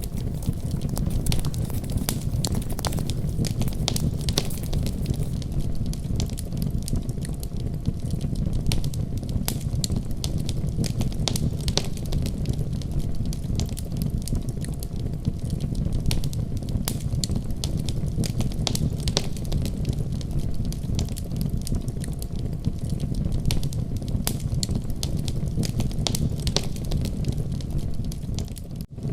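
Fireplace fire crackling: scattered sharp pops and snaps over a steady low rumble, with a split-second dropout near the end.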